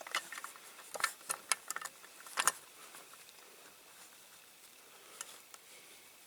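Small clicks and taps of a diecast toy tractor and its parts being handled at close range. A handful come in the first two and a half seconds, the loudest near the end of that run, then only a few faint ticks.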